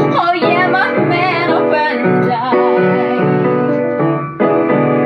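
A woman singing with vibrato over piano or keyboard accompaniment, the notes held and sustained.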